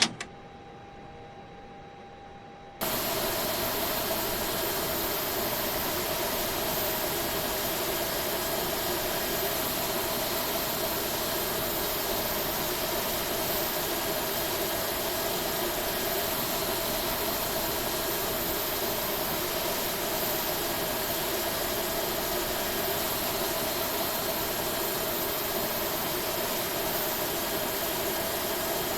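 Airbus A321neo's jet engines running steadily: a constant hiss with a few held hum tones. It cuts in abruptly about three seconds in, after a quieter stretch carrying a faint steady tone.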